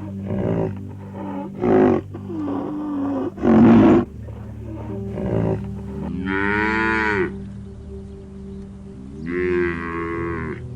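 Cattle mooing: a few short calls in the first half, then two long moos that rise and fall in pitch, about six and nine and a half seconds in. Soft background music with a steady drone runs underneath.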